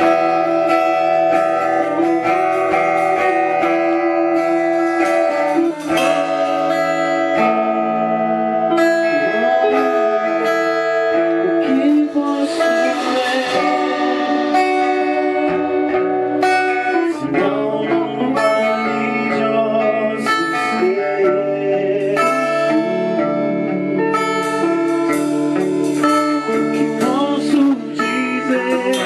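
A Christian worship band playing live, with guitar prominent among the instruments.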